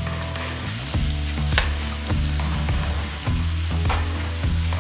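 Diced raw chicken breast sizzling in hot oil in a carbon steel wok, stirred with a metal slotted spoon that scrapes and clinks against the pan. One sharp clink comes about a second and a half in.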